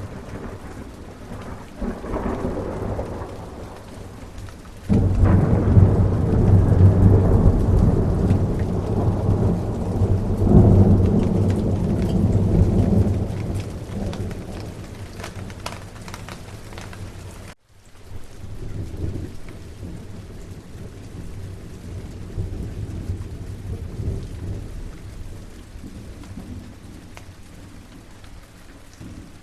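Steady rain with rolling thunder. A loud rumble breaks in suddenly about five seconds in, swells again a few seconds later and fades away, followed by softer, more distant rumbles.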